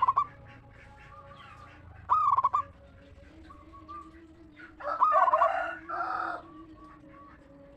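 Zebra dove (perkutut) song: short, loud ringing cooing phrases at the start and about two seconds in. About five seconds in a longer, fuller call of about a second and a half follows, which sounds like a rooster crowing.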